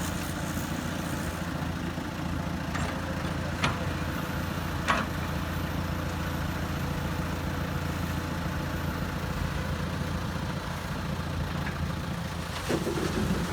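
Heavy construction machine's diesel engine running steadily at low revs, with a few short sharp clicks.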